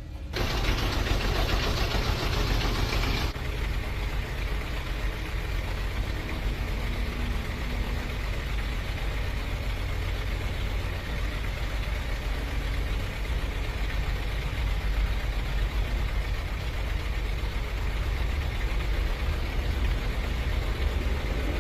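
Truck engine idling steadily, with most of its sound low in pitch. A hiss runs over it for about the first three seconds, then stops suddenly.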